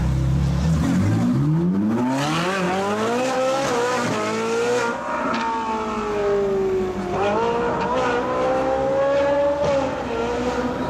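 Supercar engine pulling away hard from idle, its pitch climbing steeply through the revs. It eases off and drops in pitch about halfway, then climbs again.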